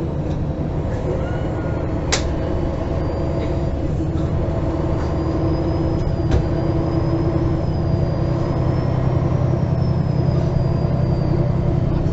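Engine of a MAN Lion's City G articulated city bus running under way, heard from inside the passenger cabin, with the drone building slightly in the second half. A sharp click comes about two seconds in, and a faint high whine runs over the drone from about five seconds on.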